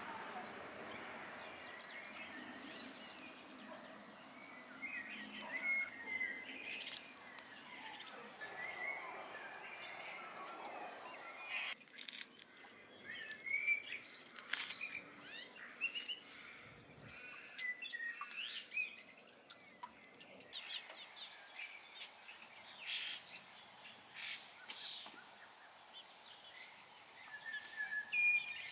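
Birds chirping and calling, many short calls one after another, over a faint outdoor background.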